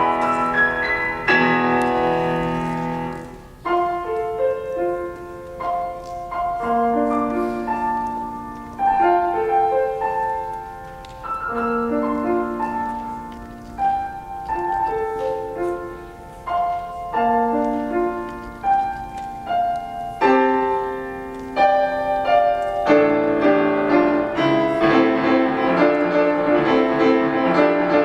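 Solo piano playing: held chords at first, then a quieter passage of separate notes and short phrases, building to loud, dense playing over the last few seconds.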